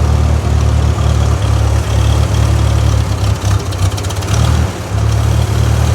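1955 Ford 660 tractor's four-cylinder engine running soon after a cold start, still not warmed up. Its steady low chug falters unevenly for a moment a little past halfway.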